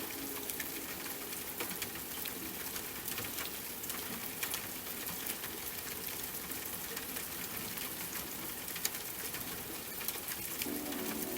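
Steady rain falling, with many separate drop hits ticking out above the hiss. Soft held music tones come back in near the end.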